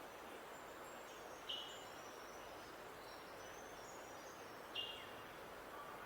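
Outdoor birdsong recording: two short, sharp bird calls about three seconds apart, with faint high thin notes from more distant birds between them, over a steady background hiss.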